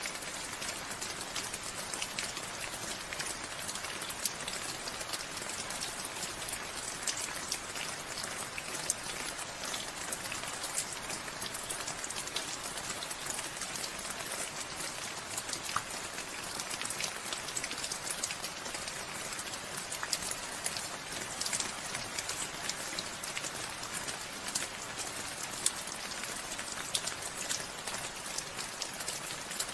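Steady rain falling, with many individual drops pattering on surfaces over an even hiss.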